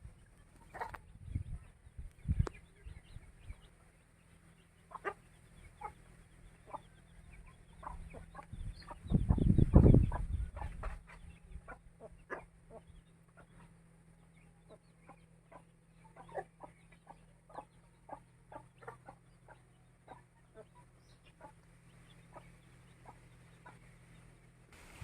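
Aseel chickens clucking now and then in short, separate calls, with a louder low rumbling noise for about two seconds, around nine seconds in.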